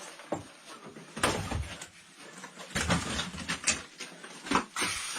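Irregular scraping and knocking as a caver's body and gear rub against rock while crawling through a tight crack, with a few louder scrapes spread through.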